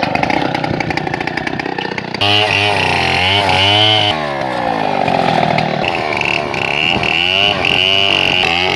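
Two-stroke chainsaw at work on a felled tree. It runs rough at first, then from about two seconds in it gets louder and its engine pitch rises and falls repeatedly as it revs and bogs under the load of the cut.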